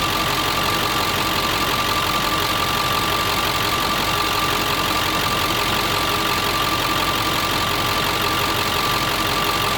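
Ford 7.3 Powerstroke V8 turbodiesel idling steadily, with a steady high tone over the engine noise. The oil fill cap is off for a blow-by check, watching how the cap shakes on the running engine.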